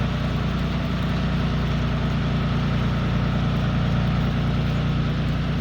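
John Deere 3040 tractor's diesel engine running steadily under load while pulling a four-furrow reversible plough at slow speed.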